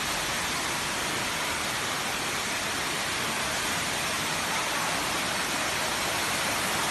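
Steady, even rush of water, as in torrential flood footage: a continuous hiss with no distinct splashes or knocks.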